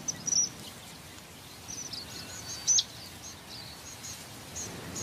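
Rock parrots giving short, high-pitched chirping calls in quick runs, over a steady rushing background noise.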